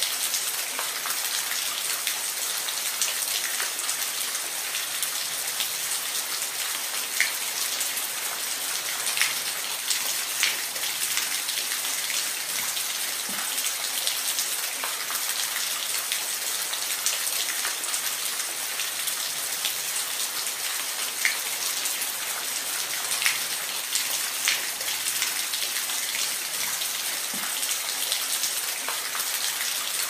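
Steady rain falling, an even hiss with individual drops clicking sharply on a surface every second or so.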